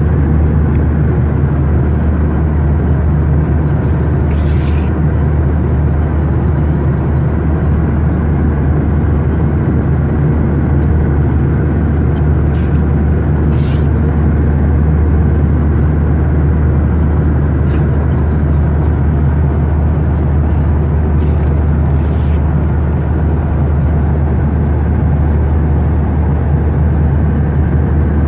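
Boeing 737-900 airliner cabin in flight: a steady, loud drone of engines and rushing air with a deep hum underneath, unchanging throughout. A few faint brief clicks come through it.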